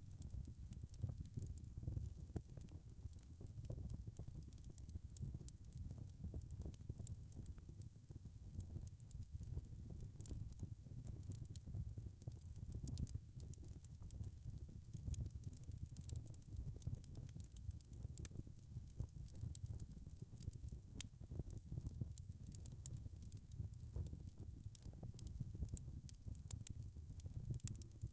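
Wood fire crackling: a steady low rumble of burning with frequent small pops and snaps.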